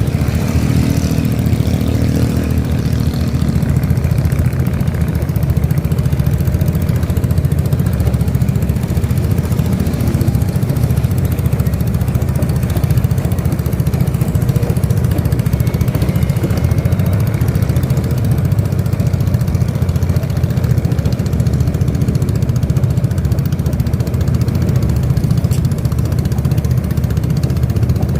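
A boat's engine running steadily, a loud even low rumble.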